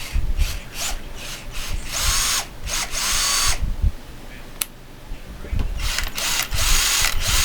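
JLD Tool cordless drill running in a string of short trigger pulses and a few longer spins of about a second, with a sharp click past the middle.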